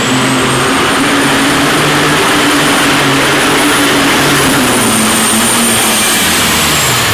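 Pulling tractor running flat out under load: a loud, dense engine sound with a steady high whistle over it, the engine's pitch sagging a little about five seconds in.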